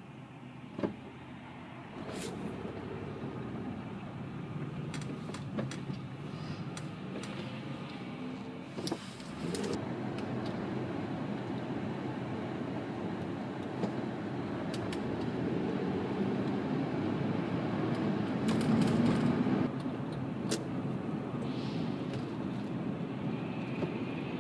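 Inside the cabin of a 2005 Honda Pilot on the move: steady road and engine noise that steps up about two seconds in and grows slowly louder, with a few faint clicks and knocks.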